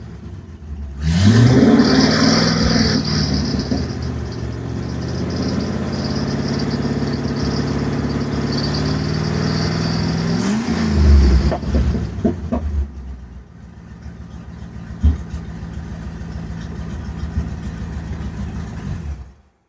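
Ford Ranger pickup's engine, breathing through a newly fitted header-and-collector exhaust, revving up about a second in and then running steadily under way. It rises and falls again around eleven seconds, then runs lower and quieter, with a few sharp knocks near twelve and fifteen seconds, before cutting off suddenly near the end.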